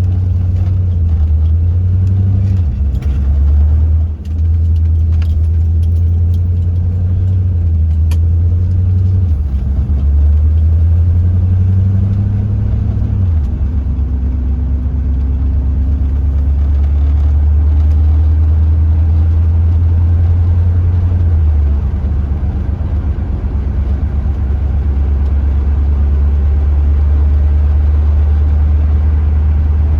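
1982 Chevrolet Corvette's 5.7-litre Cross-Fire Injection V8 pulling the car along on a drive. Its low drone jumps to a new pitch a few times as the speed changes, with a brief drop in loudness about four seconds in.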